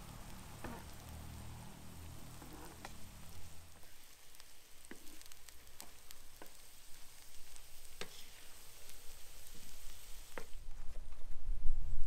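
Cut vegetables frying on a wide steel disc pan over a wood fire: a steady sizzle with scattered sharp clicks and pops. The sizzle grows louder near the end as oil is poured over them.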